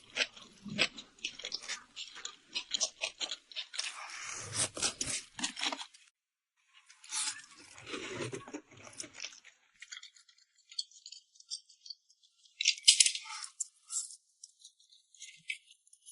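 Close-miked eating sounds from someone eating rice noodles in red chili oil: a run of short wet clicks and smacks, with two longer noisy stretches about four and seven seconds in. The sounds thin out after about ten seconds, with a louder burst a little before the end.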